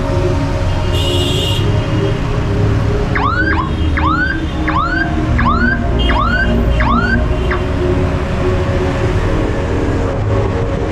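An electronic alarm, most likely a car alarm in the street traffic, gives a run of about eight quick rising chirps, roughly two a second, over steady road traffic and engine noise. A short high tone sounds about a second in.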